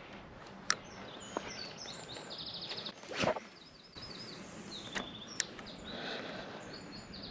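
Small birds chirping in short, repeated calls over a steady outdoor hiss. A few sharp clicks sound during it, and a brief loud whoosh comes about three seconds in.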